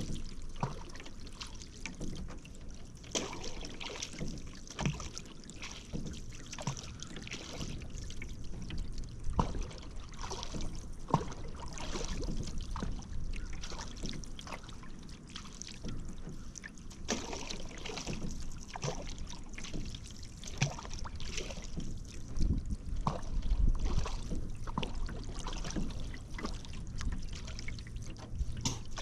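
Paddle strokes in river water: repeated splashes as the blades dip in, with water trickling and dripping off the paddle between strokes.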